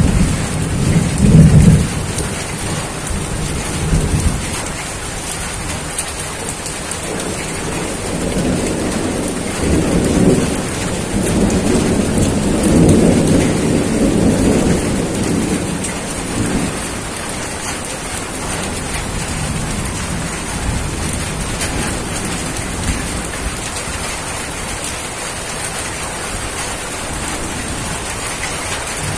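Steady rain with rolling thunder: a low rumble swells in the first couple of seconds and again in a longer roll from about nine to sixteen seconds in.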